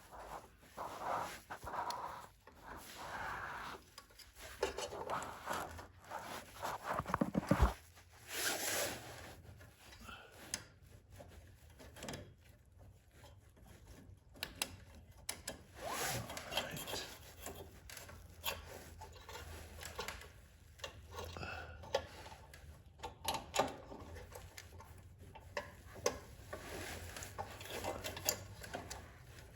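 Hand work on small snowblower carburetor parts: scattered clicks, taps and rubbing as the gasket and screws are handled and fitted, with a louder clatter about seven to eight seconds in.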